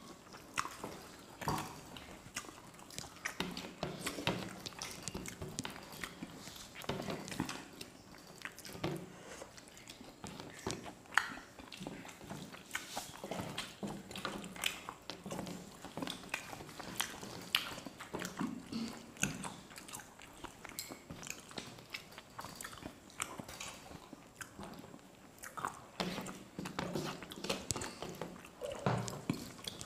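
Close-miked eating by hand: steady chewing of rice, dal and fried fish, with many small wet mouth clicks and lip smacks throughout.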